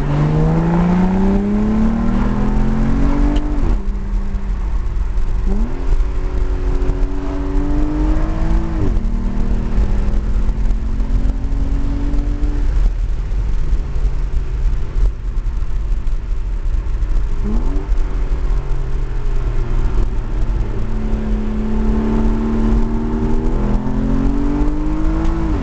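2009 Aston Martin DBS's V12 engine pulling through the gears: its pitch climbs under acceleration and drops sharply at each upshift, three times, with steadier stretches between. A constant low rumble runs underneath.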